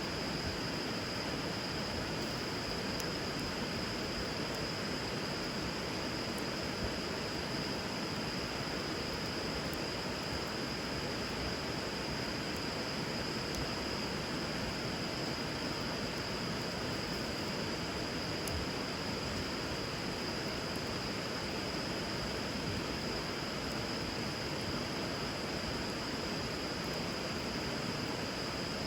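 River water running steadily, with a few faint crackles from a wood fire burning over it. A steady high-pitched tone sits above the rush of water throughout.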